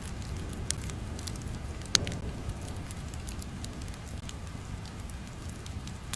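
Crackling fire ambience: a steady low rumble with irregular pops and snaps, one sharper snap about two seconds in.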